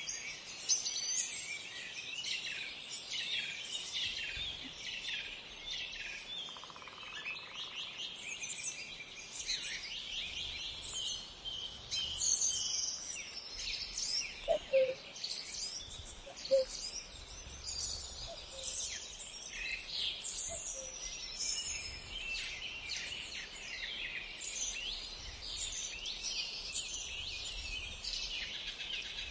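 A chorus of many small birds chirping and calling at once, dense and continuous, with quick high notes overlapping throughout.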